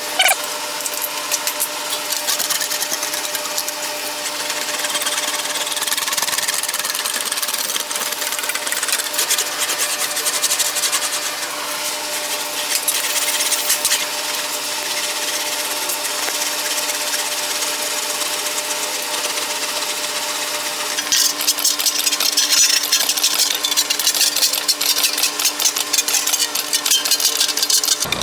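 Sheet-metal fender panel being rolled back and forth through an English wheel: a fast, continuous metallic rattling clatter over a steady hum. It grows louder and busier about three-quarters of the way through.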